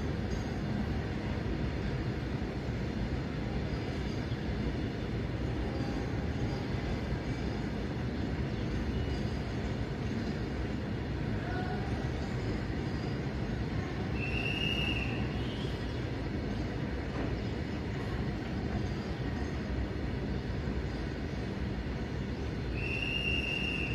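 A freight train's covered goods wagons rolling past on the track: a steady low rumble and clatter of wheels. Two brief high-pitched wheel squeals come through, about halfway through and again near the end.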